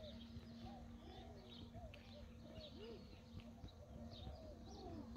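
Faint birds chirping: many short calls overlapping, over a low steady hum.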